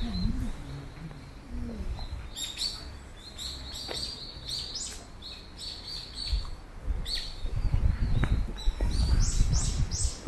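Small birds chirping in short repeated calls, over a low rumble that grows louder in the second half.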